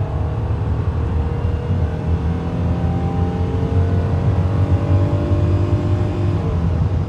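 Rebuilt Chrysler 2.7-litre DOHC V6 of a 1999 Dodge Intrepid pulling at full throttle, its engine note climbing slowly in pitch as the car accelerates.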